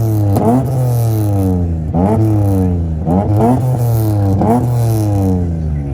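Car engines revving hard in a rev battle: repeated throttle blips, each sending the pitch sharply up before it sinks back down over a second or so.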